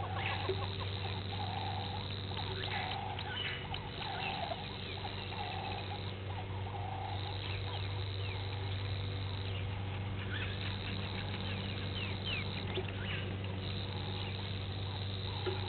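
A bird giving short repeated calls about once a second, fading out about halfway through and starting again near the end, over a steady low electrical hum.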